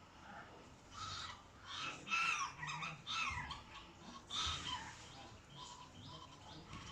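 A parrot giving a series of harsh squawks, about five in quick succession, then quieter calls near the end.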